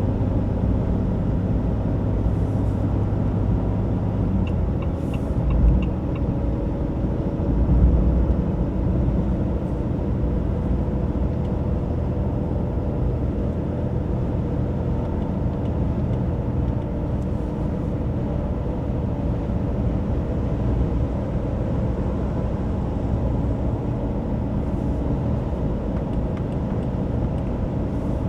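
Ram 2500's high-output 6.7-litre Cummins inline-six turbo-diesel running steadily while the truck drives, with a constant low rumble of engine and road noise. A couple of low thumps come through about six and eight seconds in.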